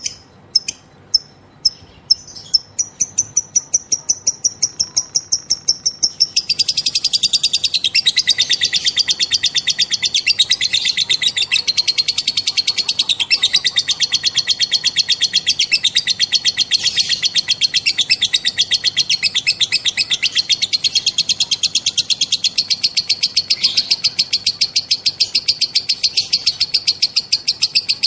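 Female lovebird's 'ngekek': it begins with a few separate sharp chirps, breaks into a fast run of high notes, and from about six seconds in turns into a long, unbroken, rapid ticking chatter.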